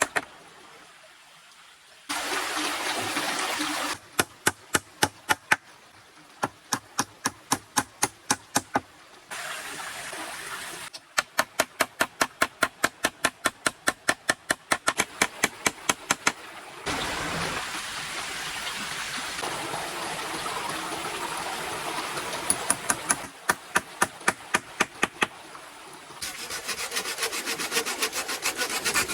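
Wood being worked by hand with cutting tools: runs of quick, sharp knocks about four a second, like chopping or hacking, alternating with stretches of steady rasping like sawing or scraping wood. Each sound starts and stops abruptly.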